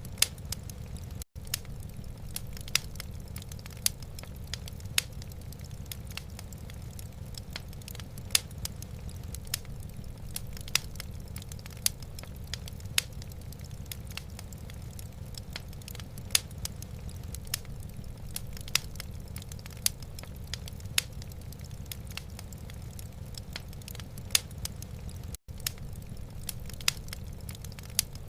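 Wood fire burning in a fireplace, crackling with irregular sharp pops, a few louder ones about once a second, over a steady low rumble. The sound drops out for an instant twice.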